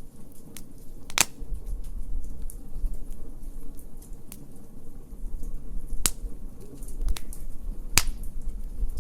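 Wood fire crackling, with a scatter of small clicks and three loud sharp pops: about a second in, about six seconds in and near the end.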